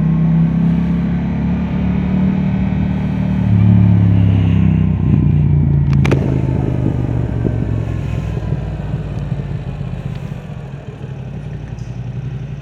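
Yamaha R7's parallel-twin engine through an Akrapovic exhaust, running at low, steady revs. There is a single sharp click about six seconds in, and the engine sound drops quieter near the end.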